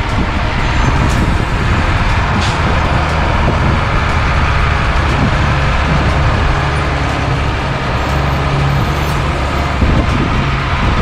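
Unimog U1700L army truck under way, its diesel engine running steadily and loudly along with the drivetrain.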